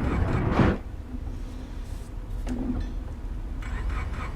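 Car engine running with a low rumble, revved hard just over half a second in and then settling back to a steadier run.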